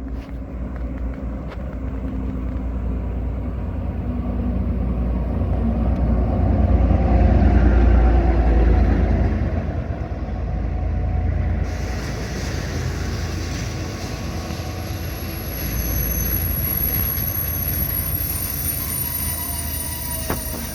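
A train rumbling past on the rails, growing louder to a peak about eight seconds in, with thin high squeals from the wheels joining in about halfway through.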